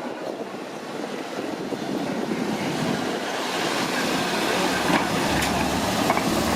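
Street traffic noise growing louder, with a heavy vehicle's low engine hum coming in about four seconds in.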